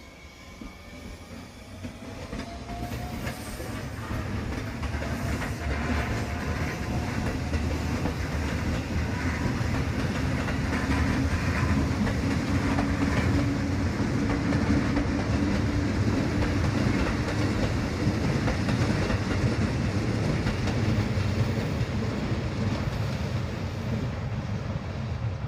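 JR West 223 series and 221 series electric multiple units coupled together pulling away: a faint motor whine rises in pitch in the first few seconds, then the wheels' rumble on the rails grows steadily louder over about ten seconds and holds as the train runs past.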